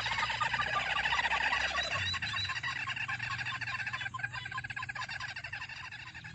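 Lure call of the ruddy-breasted crake (burung tikusan merah): dense, rapid trilling calls with a row of short repeated notes, fading out toward the end.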